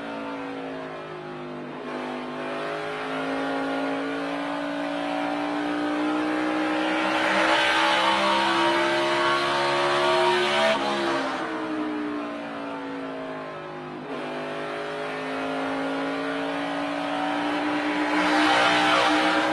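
In-car sound of a NASCAR Cup stock car's V8 engine under full throttle, its pitch climbing for several seconds. About eleven seconds in it drops sharply as the driver lifts off, then climbs again as he gets back on the throttle.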